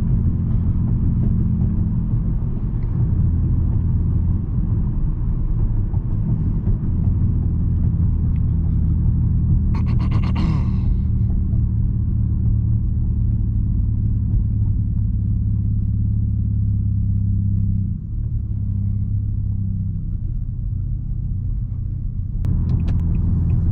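Straight-piped exhaust of a 2020 Nissan Altima droning steadily while the car cruises, its pitch holding fairly even. A brief higher noise comes near the middle.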